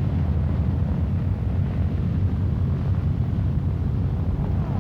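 B-17 Flying Fortress bomber's four Wright Cyclone radial engines droning steadily as the plane flies.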